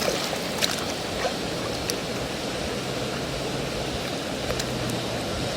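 Steady rush of running water as a mud-covered plastic toy bus is washed, with a few light clicks in the first two seconds.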